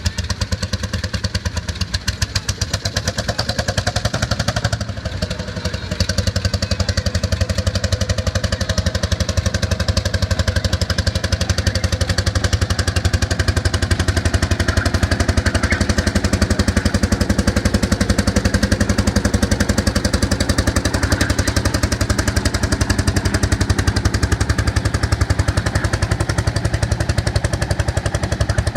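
Tractor engine running hard under load in a tractor pull, with fast, even firing beats. The level dips briefly about five seconds in, then the engine holds a steady heavy pull.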